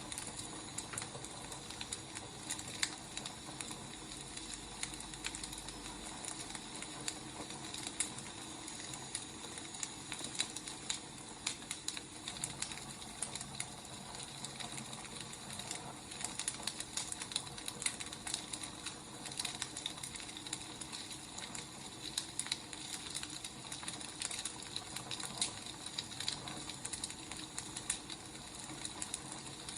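Wood fire burning, with irregular sharp crackles and pops over a steady soft hiss.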